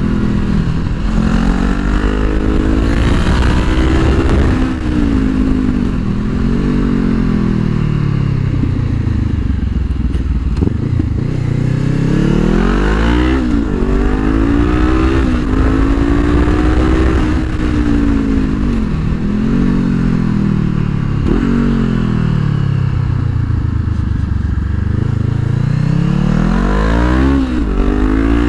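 Honda CBR500R's parallel-twin engine under hard riding, heard from a helmet-mounted microphone. The revs climb and fall again and again through gear changes and bends, with quick sharp swings in pitch about halfway through and near the end.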